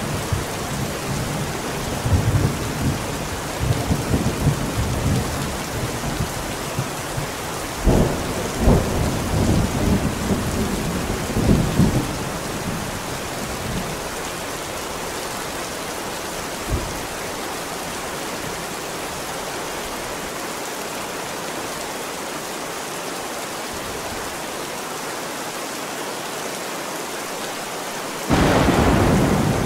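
Thunderstorm: steady heavy rain hissing throughout, with thunder rumbling and cracking through roughly the first twelve seconds before the rain goes on alone. A sudden loud thunderclap breaks in near the end.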